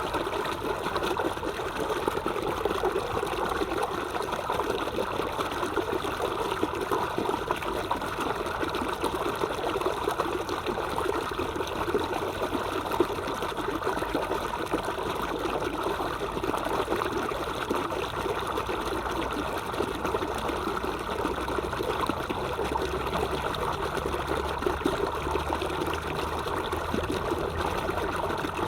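Stream water trickling and flowing steadily over stones, an even babbling rush.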